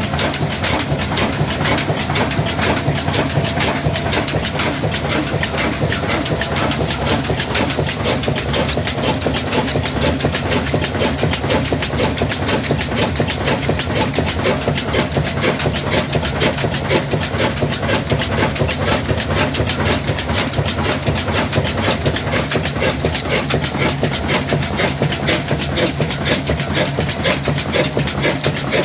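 Old diesel engine running steadily, with a regular beat of sharp knocks about four a second.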